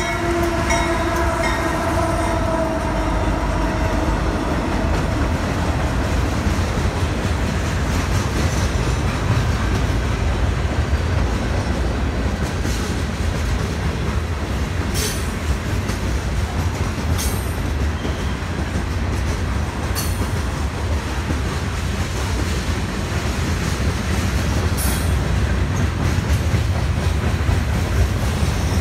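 Freight train passing close by: a diesel locomotive horn dies away over the first couple of seconds, then the steady rumble of the rolling freight cars on the rails. A few short, sharp high noises from the wheels cut through the rumble in the second half.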